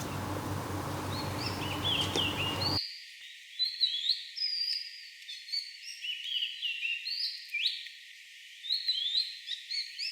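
Small birds chirping and twittering in quick, repeated short calls, over a steady background hum for the first few seconds; the hum cuts off suddenly about three seconds in, leaving the birdsong alone.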